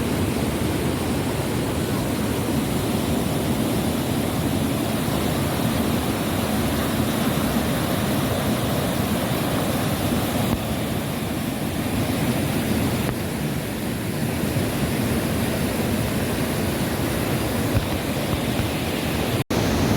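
Waterfall running steadily over rock rapids. The sound drops out for an instant near the end.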